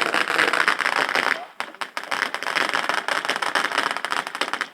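Fireworks crackling: a dense run of rapid sharp pops that eases briefly about a second and a half in, then carries on.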